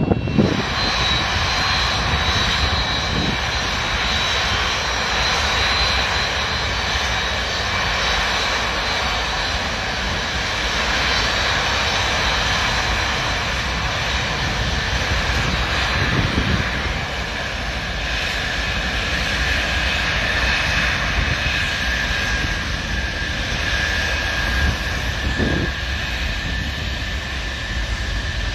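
Antonov An-225 Mriya's six turbofan jet engines running at high power: a steady loud jet roar with high whining tones over it.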